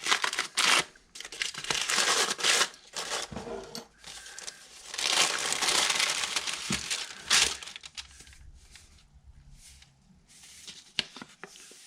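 Paper packaging crinkling and rustling as it is handled, in uneven bursts that are busiest through the first two-thirds and grow sparse and quieter over the last few seconds.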